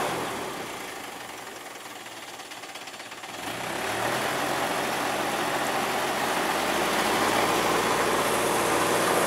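Truck engine running, dropping back a little and then getting louder about three and a half seconds in, where it holds steady.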